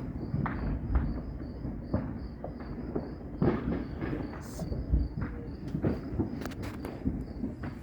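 Fireworks going off around a neighbourhood: irregular pops and muffled booms of varying strength over a continuous low rumble. A high chirp repeats evenly a few times a second behind them.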